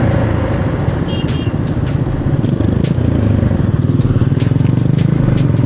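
Motorcycle engine running, heard from the rider's helmet camera, getting a little louder about halfway through.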